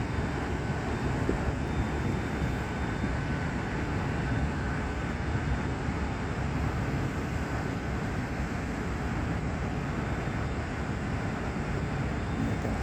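Steady industrial rumble of mill machinery running, with a faint high whine over it.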